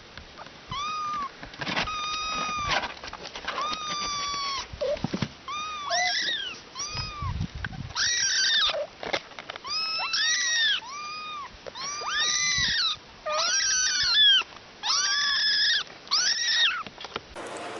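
Domestic cat meowing over and over, a long run of short, arching meows one after another. Near the end the sound cuts to a steady hiss.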